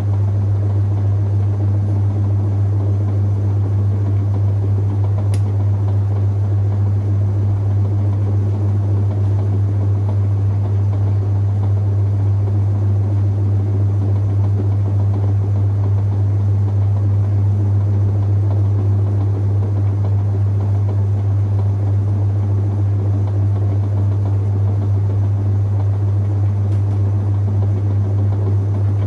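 Whirlpool top-loading washing machine running steadily, with a strong constant low hum and a mechanical rush above it.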